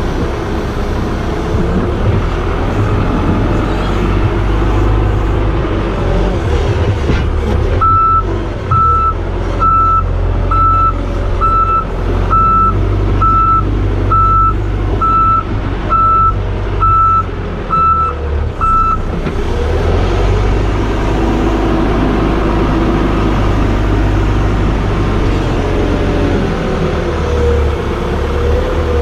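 Heavy vehicle engine running steadily, with a reversing alarm beeping about once a second, a dozen times, through the middle as the vehicle backs up.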